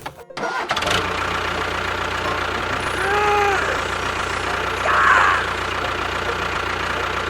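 A motor running steadily with a low hum, with a brief tone that rises and falls about three seconds in and a louder short burst about five seconds in.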